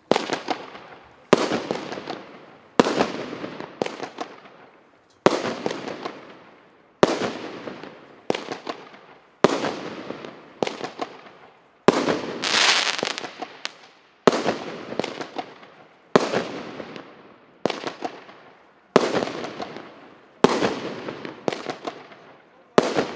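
Fireworks bursting one after another, about fourteen sharp bangs spaced a second or two apart, each trailing off in a crackle.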